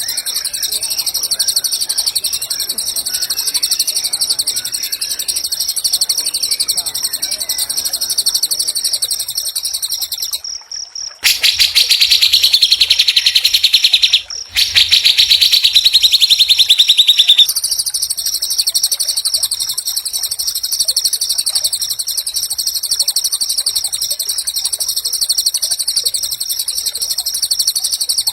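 White-rumped shama (murai batu) singing fast, dense, high-pitched trills without pause. From about 11 to 17 seconds in there is a louder, lower run of very rapid repeated notes, broken briefly near the middle.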